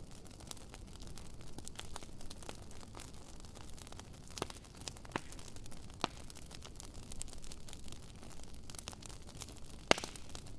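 Wood fire crackling with irregular sharp pops and snaps over a faint low rush of flame, with one louder pop near the end.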